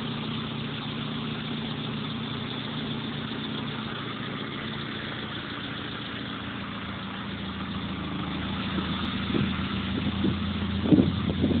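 Citroën AX engine idling steadily through an aftermarket Remus exhaust. Louder, uneven bursts of sound come in near the end.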